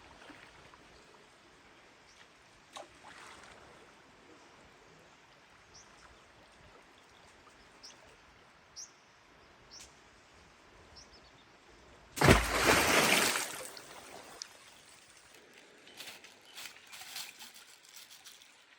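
Outdoor river ambience: faint running water with a few short, high bird chirps. About twelve seconds in, a loud rushing noise lasts about a second and a half, followed by a few light knocks.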